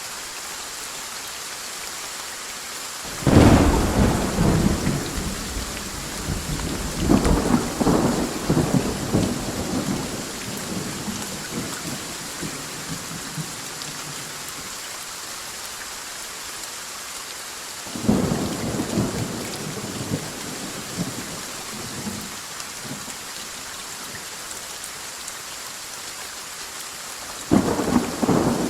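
Steady rain with three rolls of thunder: a loud crack and long rumble a few seconds in that swells again, another rumble past the middle, and a third starting near the end.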